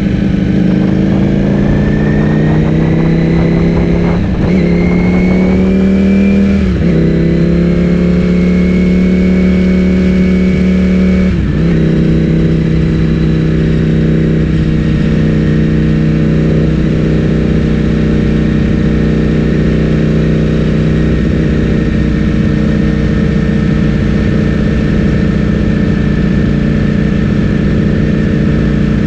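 Ducati Streetfighter V4S's 1103 cc V4 engine through an Akrapovic full-system exhaust, accelerating with its pitch rising through upshifts in the first dozen seconds, then running at a steady pitch at a cruise.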